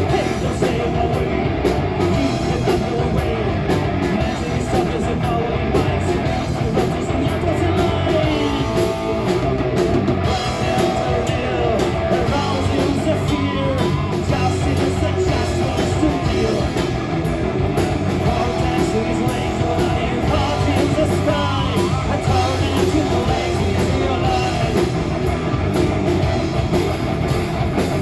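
Live rock band playing a song: electric guitars and drum kit with a singer.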